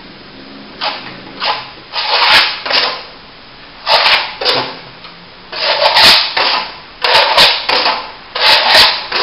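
Steel plastering trowel scraping over a wet top coat of plaster on a plasterboard ceiling joint, in a run of short sweeping strokes about one or two a second.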